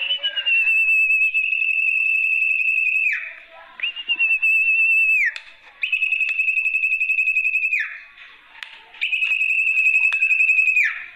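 Lure call of the sertu (zepo) bird: four long, high, trilled whistles, each held for one to three seconds with a fast flutter and ending in a quick downward slide.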